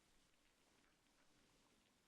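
Very faint rain: a soft, even hiss with scattered individual drops.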